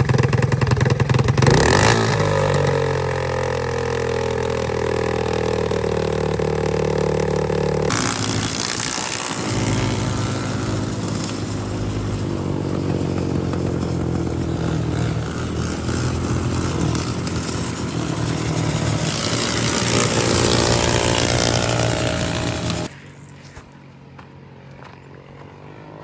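Racing riding-lawnmower engine running hard under load, its pitch shifting with the throttle; the sound changes abruptly about a third of the way through and drops off sharply near the end.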